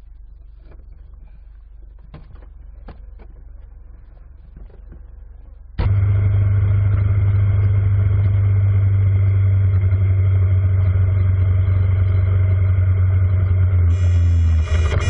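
A faint low hum with scattered clicks, then about six seconds in an abrupt switch to a loud, steady vehicle engine drone.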